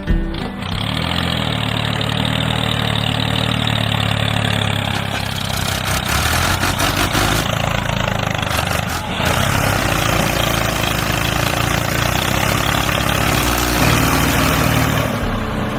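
An engine running steadily, with a brief dip about nine seconds in, after which a steady hum sets in over the engine noise.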